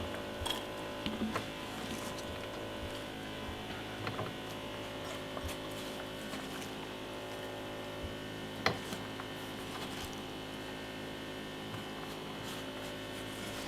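Steady electrical hum with a few light knocks of a knife on a cutting board, one sharper tap a little past halfway.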